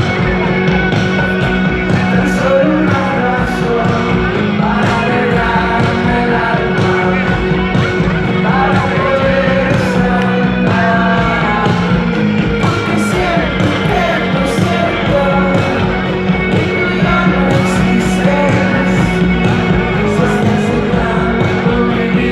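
Live rock band playing, with steady drums and cymbals, sustained instruments and singing.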